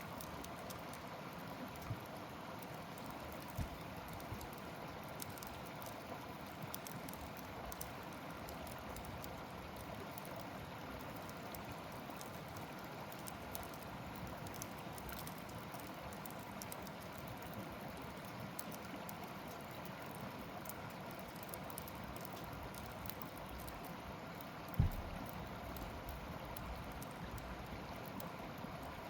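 Campfire burning: a steady hiss of flames with fine, continual crackling of wood and a few sharper pops, the loudest near the end.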